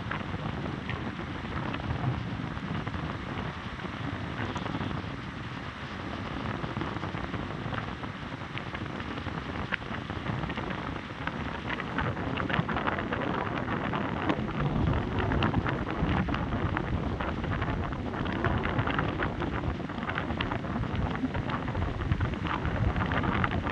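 Heavy rain falling, a dense patter of drops over a low rumble underneath; the rain grows louder and denser about halfway through.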